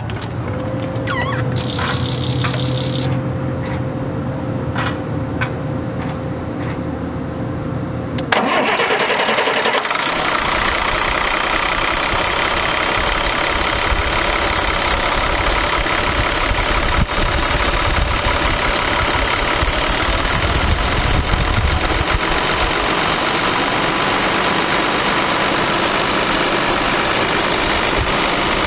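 A steady hum for about eight seconds. Then a Caterpillar C7 inline-six diesel engine starts abruptly and settles into a steady idle with a faint high whine.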